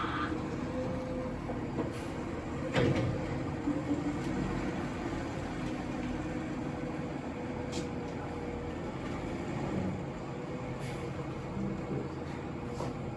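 Garbage truck running steadily with a low rumble and a held whine, with several sharp clanks and knocks, the loudest about three seconds in.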